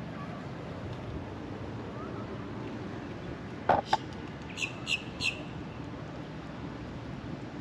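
Birds calling over a steady outdoor background noise: a sharp double call a little past halfway, then three short, high chirps in quick succession.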